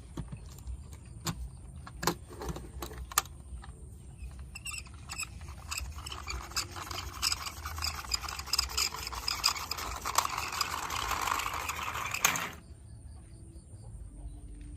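Toy vehicles being handled: a few separate clicks and knocks, then a busy rattling, scraping clatter that builds and stops abruptly near the end.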